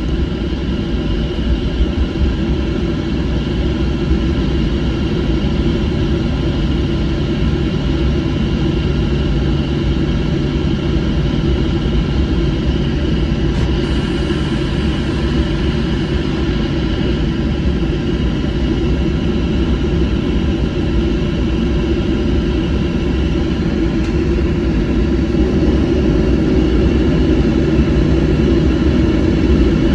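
Cabin noise inside a Boeing 737 airliner: the jet engines and airflow make a steady rumble with a low hum, growing slightly louder toward the end.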